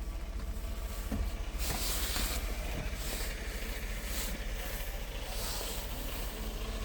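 Scania R tractor unit's diesel engine running with a steady low rumble. A rush of hiss comes in about one and a half seconds in, followed by a few shorter hisses.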